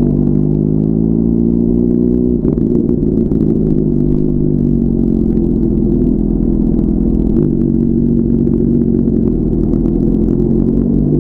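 Inline-four sport motorcycle engine running steadily at freeway speed under a low wind rush, with a brief break and a jump in pitch about two seconds in, like a gear change.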